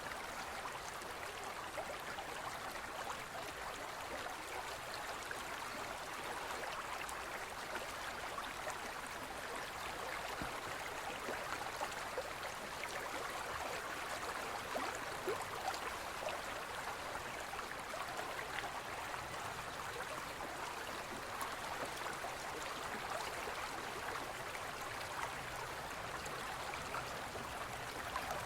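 Forest stream flowing steadily, an even rushing and babbling of water over rocks.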